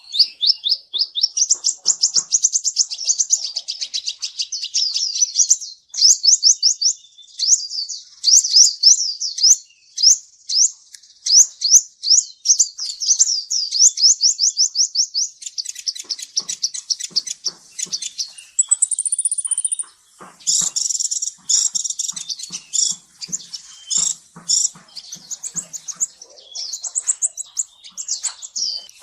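Kolibri ninja (plain-throated sunbird) song: long, fast runs of high, sharp rising notes, about five a second. After about halfway it breaks into choppier chirps and clicks, with a brief higher whistle.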